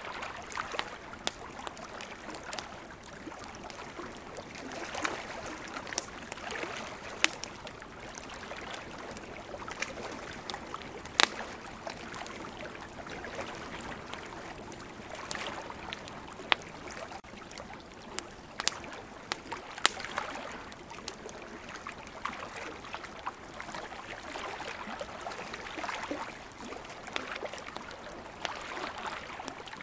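Campfire crackling, with irregular sharp pops of burning wood, the loudest a few seconds apart. Behind it, ocean waves wash in a slow rise and fall every few seconds.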